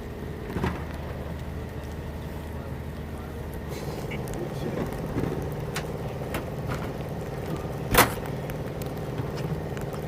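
Steady mechanical hum with a few light clicks, and one sharp knock about eight seconds in.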